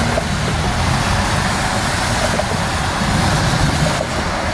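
A car engine's low hum under a steady rush of wind and road noise.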